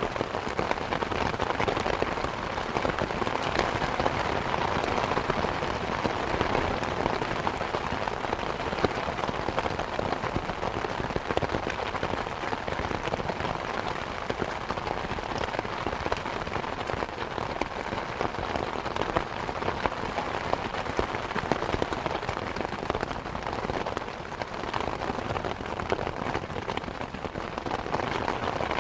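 Steady rain falling, a dense patter of many drops striking surfaces with no let-up.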